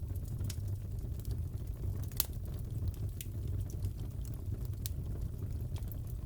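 Wood fire crackling in a fireplace: a steady low rumble of the flames with scattered sharp pops and snaps, the loudest about two seconds in.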